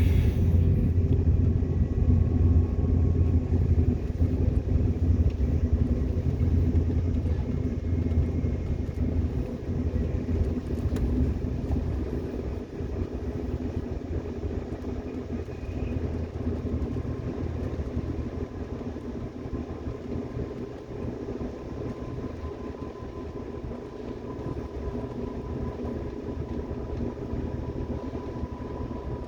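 Subway train running, heard from inside the car: a steady low rumble that eases off after about twelve seconds, with a faint steady whine through the second half.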